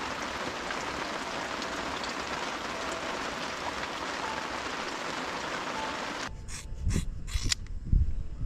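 Heavy rain falling steadily, a dense even hiss. About six seconds in it cuts off abruptly, giving way to low thumps and a few sharp clicks.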